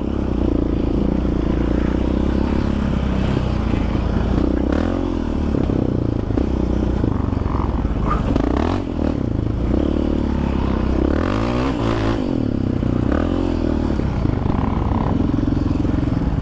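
Yamaha Raptor 700R ATV's single-cylinder four-stroke engine running under way, its pitch rising and falling as the throttle opens and closes over rough ground, with a few knocks and clatters in the middle.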